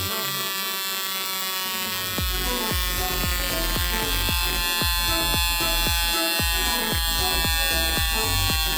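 FS 6AL multi-spark ignition unit under bench test: a steady electrical buzz with several steady tones, broken by regular sharp clicks a few times a second, which grow stronger about two seconds in.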